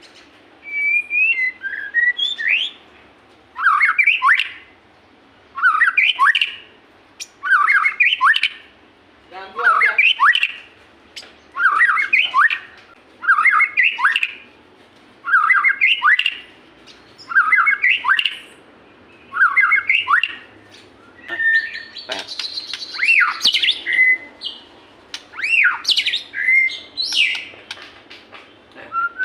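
White-rumped shama (murai batu) singing. A short burst of fast rising notes repeats about every two seconds, about nine times, then a more varied run of whistled notes comes near the end.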